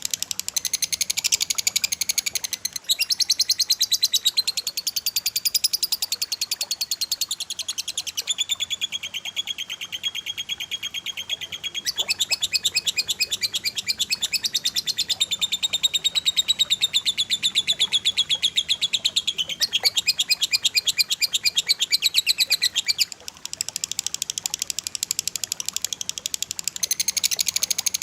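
Cage birds singing rapid, dense, high-pitched trills in runs of a few seconds each, with short breaks between phrases and a brief pause about 23 seconds in: the fast 'tembakan' song used as masteran for training songbirds.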